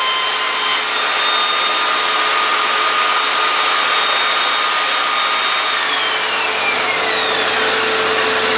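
Evolution Rage 5S saw running with a steady rushing noise and a high whine. About six seconds in, the whine falls away as the blade motor spins down after a rip cut, while the rushing carries on.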